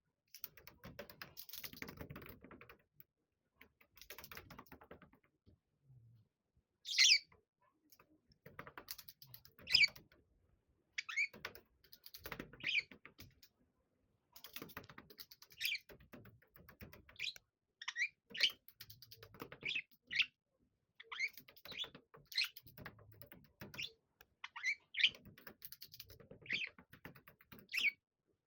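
Budgerigars giving short, sharp chirps, about one every second or two from about seven seconds in. Under them runs scratchy rustling from the birds moving about in an accordion tunnel.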